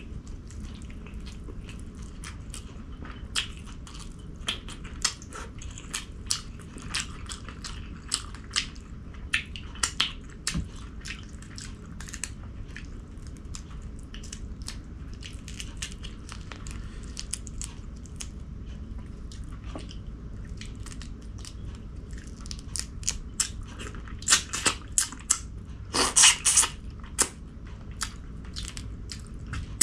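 A person eating close to the microphone, chewing and crunching, with many short sharp clicks. The clicks come thicker and louder a few seconds before the end. A steady low hum runs underneath.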